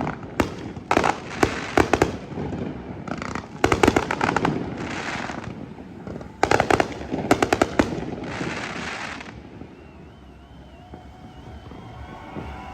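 Fireworks display: sharp bangs and rapid crackling bursts, several in quick succession, some followed by a hissing spray. The barrage dies away about nine seconds in.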